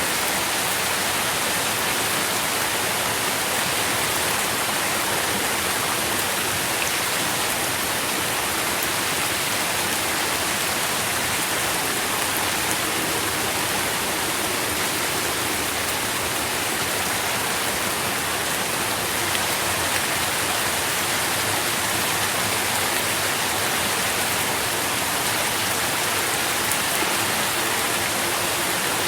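Steady rain falling, an even dense hiss with faint drop ticks and no let-up.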